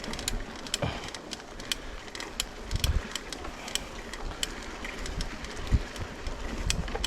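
Footsteps on a stony trail: irregular sharp clicks and scrapes of shoes and loose stones, with a few dull low thumps.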